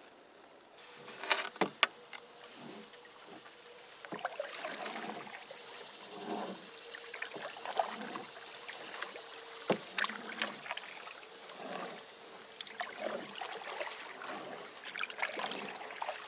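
Canoe being worked off a muddy bank and paddled: irregular splashes and water sounds, with a few sharp knocks, two close together about a second in and one near the ten-second mark.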